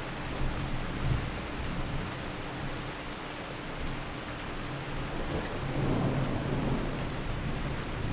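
Steady rain falling, with low thunder rumbling twice: briefly about a second in, and a longer swell past the middle.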